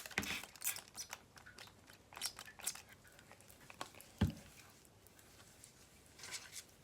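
Hands kneading and squishing homemade slime with water just mixed in: irregular sticky clicks and crackles, with one heavier thump about four seconds in.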